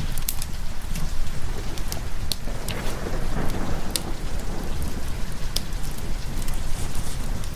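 Steady rain with low rumbling thunder that swells about three seconds in, and scattered sharp crackles.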